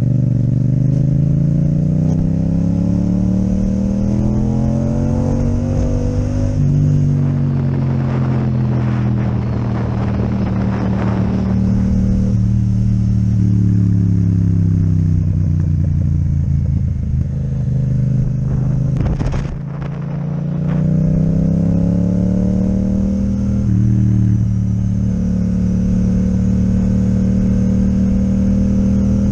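Yamaha MT-07 parallel-twin engine with an Akrapovic exhaust, ridden through the gears: the pitch rises under acceleration, drops at an upshift about seven seconds in, falls away as the rider rolls off, then climbs again with another shift near the end. A few sharp clicks come in a short dip about two-thirds of the way through.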